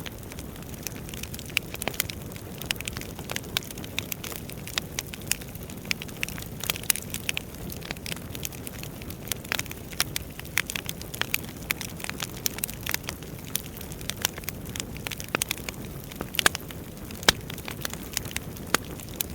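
Wood fire burning in a fireplace, crackling and popping with frequent sharp irregular snaps over a steady low rush of flame.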